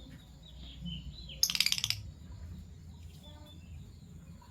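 Fischer's lovebirds chirping softly, with a loud half-second burst of rapid, harsh rattling chatter about one and a half seconds in.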